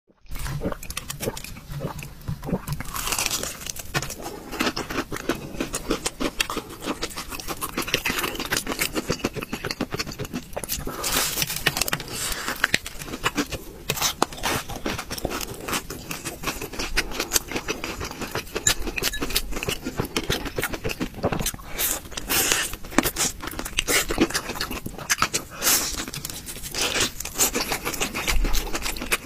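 Close-miked eating sounds: biting into and chewing crispy fried food, with dense, irregular crunching and wet mouth noises.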